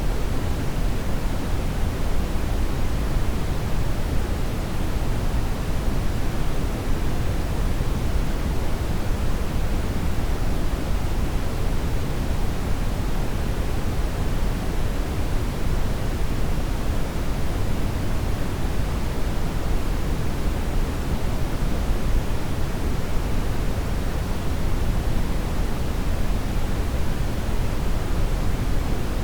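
Steady brown noise: an even, deep rushing hiss with most of its weight in the low end, unchanging in level.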